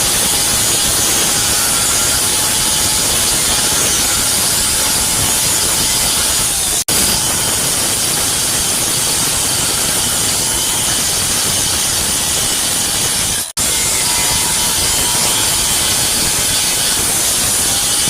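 Welding arc running with a steady loud hiss, cut off abruptly twice for a moment.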